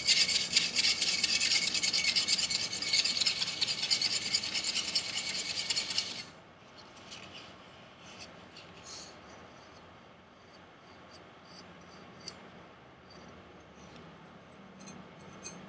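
Steel edge of a Chinese chef knife stroked rapidly back and forth over 320-grit sandpaper, a dense, quick scratching, while reworking a rolled and micro-chipped factory edge. The strokes stop abruptly about six seconds in, leaving only a few faint scrapes and ticks.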